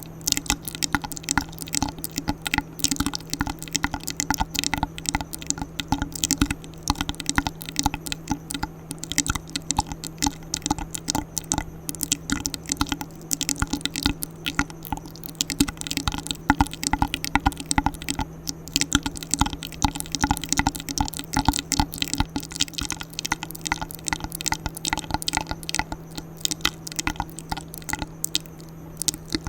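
Close-miked ASMR mouth sounds: a fast, irregular run of wet clicks and pops from the tongue and lips.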